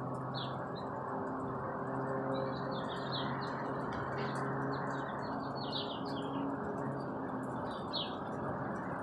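Small birds chirping repeatedly over a steady, even drone of an airplane flying overhead.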